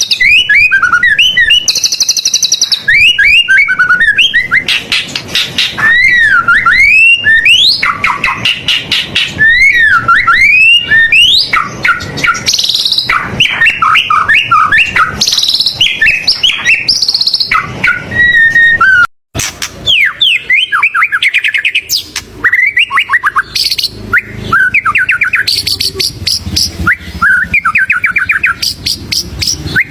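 White-rumped shama (murai batu) singing loudly and without pause: a varied song of clear whistles, swooping up- and down-slurred notes and fast rattling trills, packed with mimicked phrases of other birds ('full isian'). The song breaks off for a moment about 19 seconds in, then goes on.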